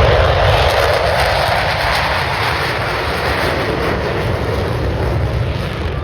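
Jet engine noise from the four F/A-18 Super Hornets of the Blue Angel Diamond taking off in afterburner: a loud, steady rushing noise that slowly fades.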